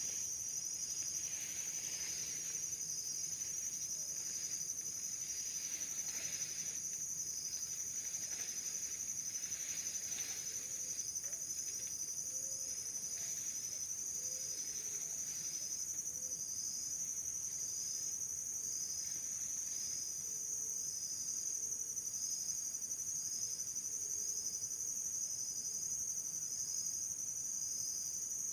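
Insects trilling in a steady high drone, with a second insect chirping about once a second over it.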